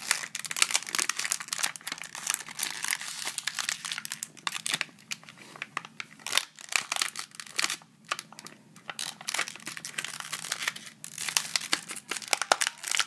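Plastic blister packaging and cardboard backing of a die-cast toy car being crinkled and torn as a child works to get the car out, a busy run of irregular crackles and rustles.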